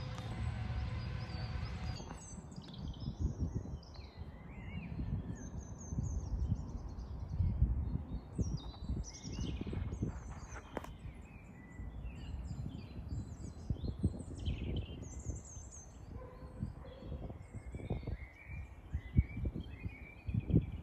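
Several wild birds singing and calling in woodland: many short chirps, trills and whistles overlapping, with a low rumble underneath.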